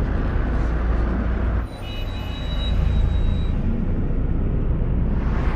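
Film sound effects: a deep, steady rumble of a giant alien spaceship. The rumble drops briefly about one and a half seconds in, and a few thin high tones sound for a second or two after the drop.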